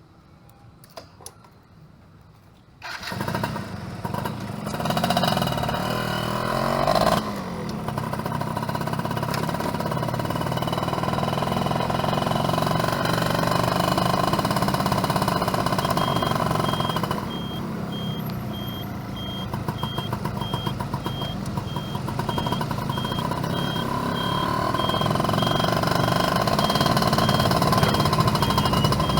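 Yamaha F1ZR two-stroke motorcycle engine starting about three seconds in, after a few light clicks. It then runs and revs, its pitch rising and falling with the throttle.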